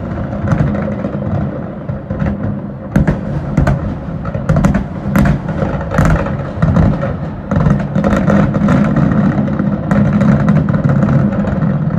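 Aerial fireworks going off in a dense barrage: many sharp bangs and crackles close together over a continuous low rumble of booms.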